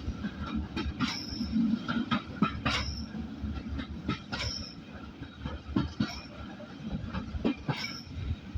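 Passenger carriage of a steam train running along the line, heard from on board: a steady low rumble with irregular clatter of wheels over the rails and several short, high wheel squeals.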